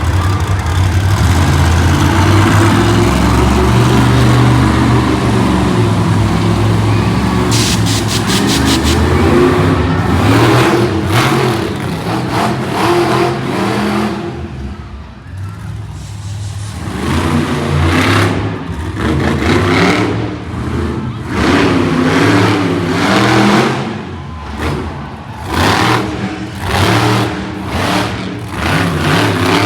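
Monster truck engines running loudly and revving in repeated surges, with a drop-off about halfway through.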